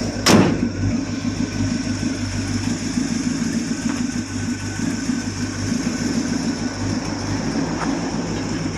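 The hood of a 1969 GMC pickup being opened or shut with a single sharp metal clunk about a third of a second in, followed by a steady low mechanical hum.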